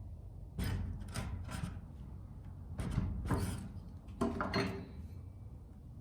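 Wood being worked with a hand tool: about seven short scraping strokes in three quick groups.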